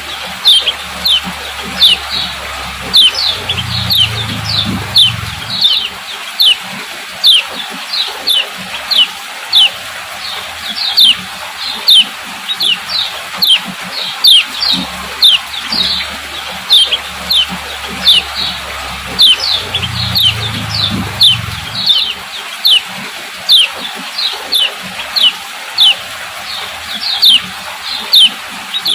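Female kecial kuning (white-eye) giving its 'ciak ciak' call: a steady string of short, high chips, each sliding down in pitch, about two to three a second. This is the female's call used to stir male kecial into singing. A brief low hum sounds twice underneath.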